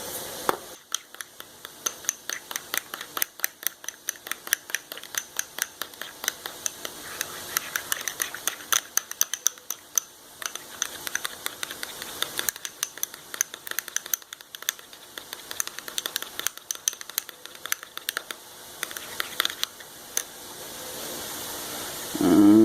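A utensil stirring a thick ketchup-and-mayonnaise sauce in a small bowl: rapid, irregular clicking and scraping against the bowl, several strokes a second.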